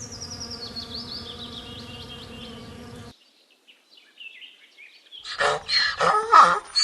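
A wasp buzzing steadily, its wing hum holding one even pitch, which cuts off suddenly about three seconds in. After a short near-quiet, loud, varied calls from an unidentified animal start near the end.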